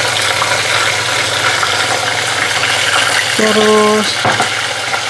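Chicken pieces frying in a pan with soy sauce and oyster sauce, a steady sizzle over a low hum.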